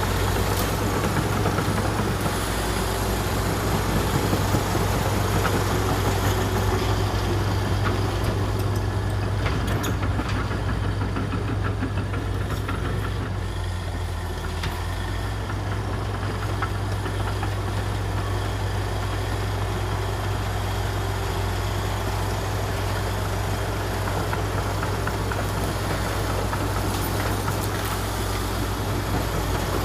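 Komatsu D61EX crawler bulldozer's diesel engine running steadily with a deep low drone, with a few faint metallic clanks near the middle.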